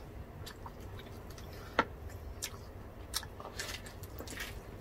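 People chewing food, with scattered faint wet mouth clicks and smacks; one sharper click comes a little under two seconds in.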